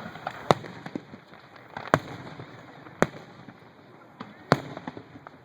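Fireworks going off: four loud, sharp bangs spaced roughly a second to a second and a half apart, with smaller pops between them.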